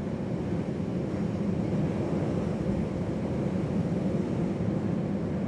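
Steady low roar of storm wind and sea, swelling slightly in the first second.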